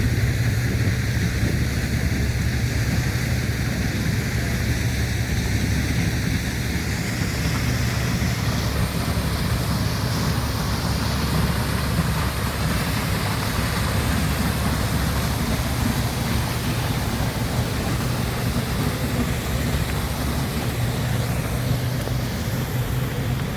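Steady low hum of an idling vehicle engine, with wind noise swelling about seven seconds in.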